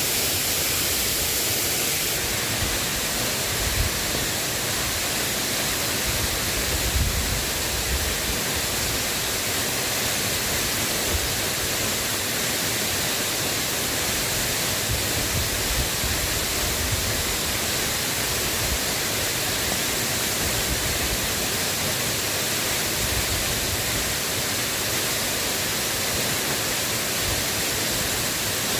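Steady rain falling, an even hiss, with a few soft low thumps.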